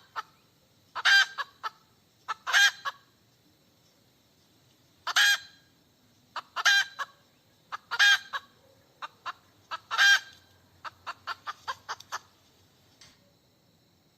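A hen cackling: a string of short clucks broken by six loud, drawn-out calls, then a quick run of short clucks near the end.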